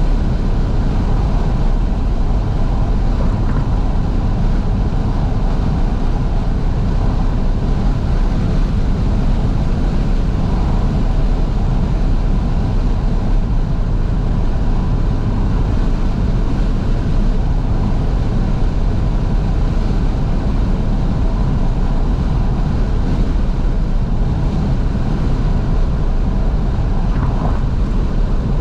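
Steady wind rush and road noise in the cabin of a moving 2012 Fiat 500S with all its windows wide open, the engine running underneath.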